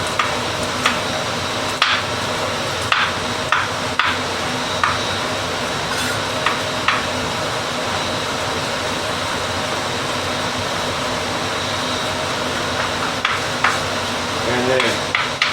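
Kitchen knife chopping garlic on a cutting board: irregular sharp knocks through the first seven seconds or so, a pause, then a few more near the end, over a steady hiss.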